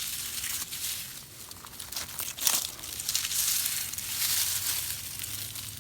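Crinkling and rustling of loblolly pine needles and dry leaves being scooped up by hand off the ground, with sharp crackles among the rustle and a louder, denser stretch past the middle.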